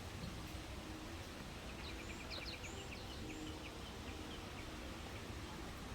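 A small bird singing over steady outdoor background noise: a quick trill of short high notes about two seconds in, followed by scattered chirps and whistles.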